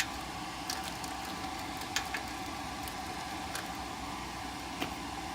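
A few light, sharp clicks and taps of wiring and terminals being handled inside the furnace cabinet, over a steady background hum.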